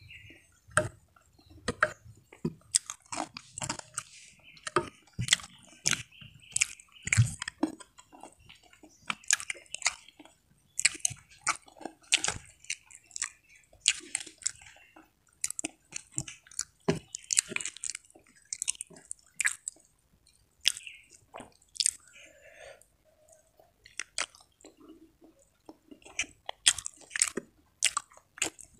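Close-up chewing and wet mouth smacking of a person eating rice and side dishes by hand, with irregular sharp clicks and occasional crunches of krupuk crackers.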